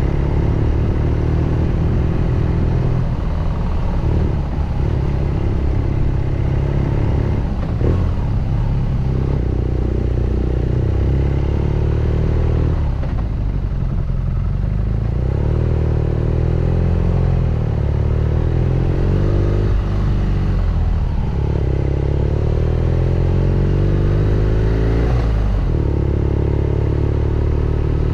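BMW R nineT Scrambler's boxer twin running under way. The exhaust note rises and falls as the rider changes gear and rolls the throttle on and off, with several brief dips in pitch.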